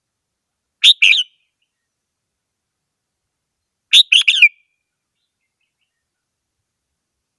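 Red-whiskered bulbul singing two short, bright song phrases, one about a second in and one about four seconds in, with silence between them.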